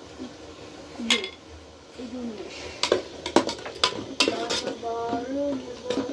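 Dishes and utensils clinking and knocking: a series of sharp, ringing clinks, several in quick succession between about three and four and a half seconds in.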